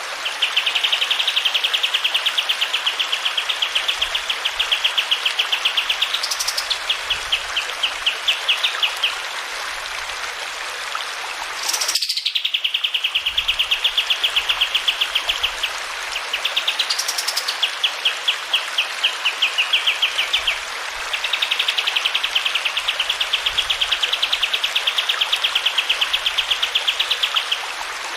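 Kapas tembak songbird singing long, fast trills of rapidly repeated notes, each several seconds long, with a few sharp rising whistles between them. Running water hisses steadily underneath.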